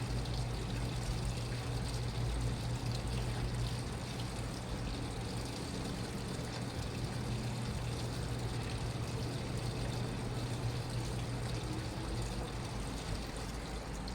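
Washing machine running, with water pouring and sloshing in the drum over a steady low hum.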